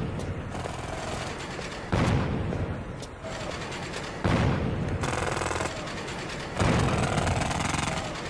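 Loud, rapid mechanical rattling and hammering that comes in surges about every two seconds, each surge loudest as it starts.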